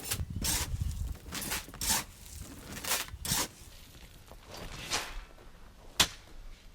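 Shovel scraping and crunching into gravel as a trench is backfilled by hand: a run of short, irregular rasping strokes, one every half second to a second, with a sharp one near the end.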